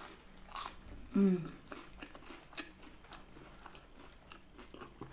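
Close-up chewing of a mouthful of grilled cheese sandwich dipped in tomato soup: soft, wet mouth clicks and chewing noises, with a brief hum from the voice about a second in.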